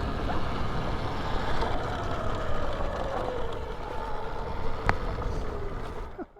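Alta electric dirt bike being ridden: heavy wind and tyre rumble over the faint whine of the electric motor, which slowly falls in pitch. A sharp click comes about five seconds in, and the sound stops abruptly just before the end.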